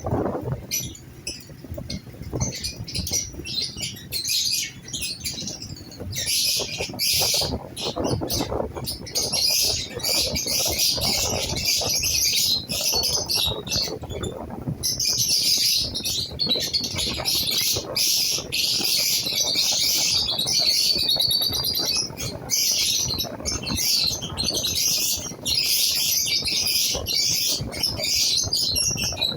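Lovebirds chattering, with rapid high-pitched chirps and squawks, scattered at first and then a dense, continuous chatter from about six seconds in.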